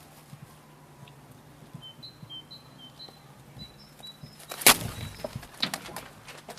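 A small bird giving a series of short, high chirps, then a single loud sharp crack followed by scattered knocks and rustling.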